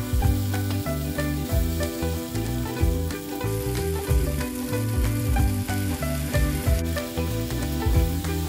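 Beef slices and onions sizzling in a frying pan while a wooden spatula stirs and scrapes them, with background music.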